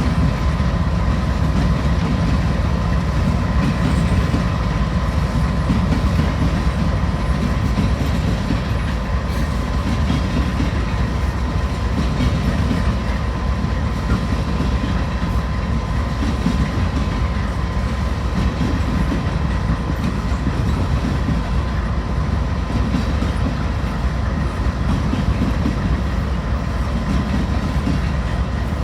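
Freight train cars rolling past, a steady low rumble with wheels clacking over rail joints and a thin steady whine over it.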